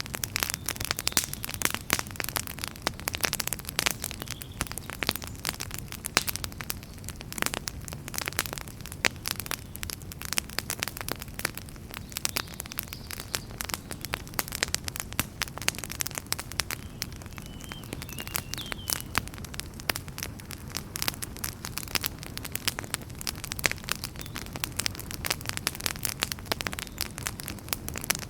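Wood fire in a fireplace crackling: dense, irregular pops and snaps over a steady low rumble of the flames.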